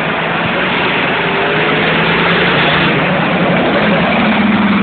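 A vehicle engine running steadily and loudly, its pitch rising slightly about four seconds in.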